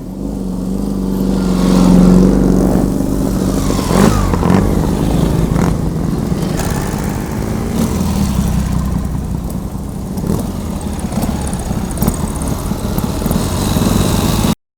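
Boxer-twin motorcycle engine running and being revved, swelling over the first two seconds and then rising and falling; the sound cuts off abruptly near the end.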